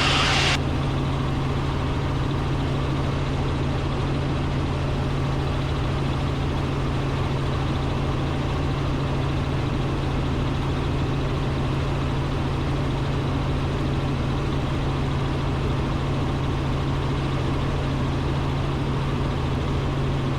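Robinson R44 Raven II helicopter in cruise flight, heard from inside the cockpit: the steady drone of its main rotor and six-cylinder Lycoming piston engine, with a constant low hum and no change in pitch or level.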